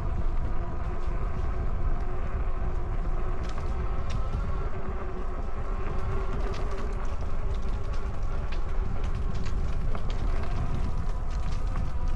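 Riding noise from a Rad Power Bikes e-bike under way: a steady rumble of wind on the microphone and tyres on the trail, a steady whine from the electric motor, and scattered small clicks and rattles.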